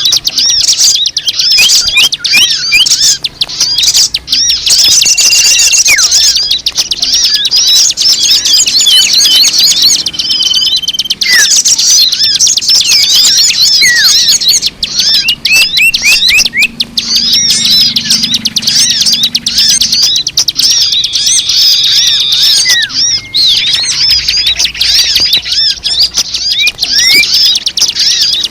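Dense chorus of many small birds chirping, rapid overlapping chirps without a break, with a few short held whistles mixed in: a bird-lure recording meant to draw in all kinds of birds.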